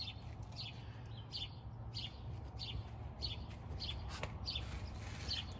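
A small bird chirping repeatedly, short high chirps about two a second, over a low steady hum.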